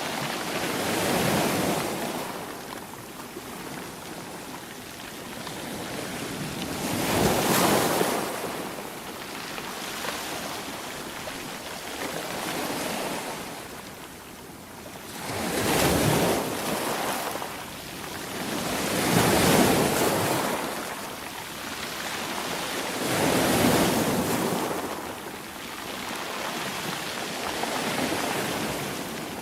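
Ocean waves breaking and washing on the shore, one loud surge every few seconds with a softer hiss between.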